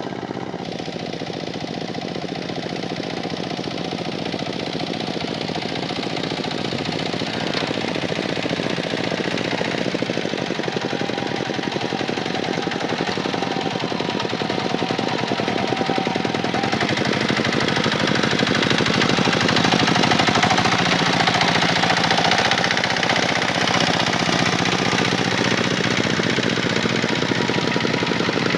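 Kubota tractor's diesel engine running hard with a fast, even knocking beat, growing gradually louder.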